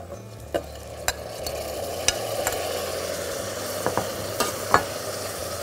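Diced tomatoes sizzling in hot oil with onion and garlic in a steel pot as they are stirred, the spoon clinking against the pot about half a dozen times. The sizzle grows louder over the first couple of seconds.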